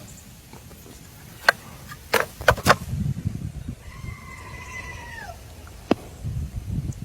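A few sharp clicks or knocks, then one drawn-out animal call about four seconds in that drops in pitch at its end.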